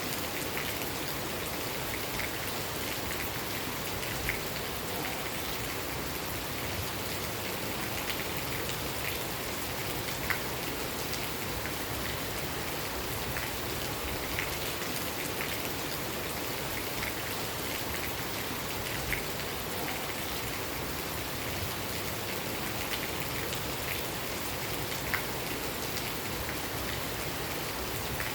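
Steady rain falling, an even hiss with occasional louder single drops ticking on a surface.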